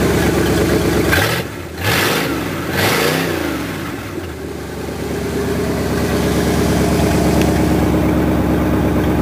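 1986 Dodge Ram 250's 318 V8 running just after a cold start, its first run after sitting five months. About a second in it is revved up and down twice, then it settles back to a steady idle.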